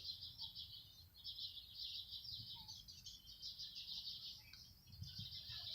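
Faint birds chirping in the background, a run of small high chirps.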